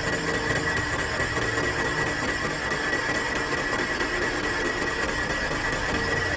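A machine running steadily, with a constant high-pitched whine over a continuous mechanical noise.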